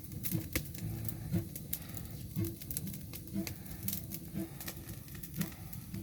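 Campfire crackling, with many sharp irregular pops and snaps over a low steady rumble.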